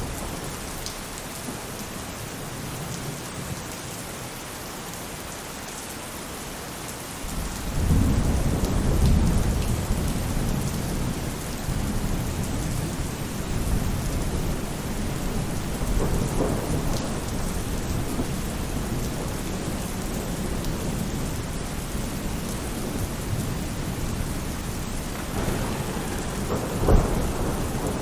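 Steady rain falling on a roof, with a low thunder rumble swelling in about a quarter of the way through and a sharper, louder clap of thunder near the end.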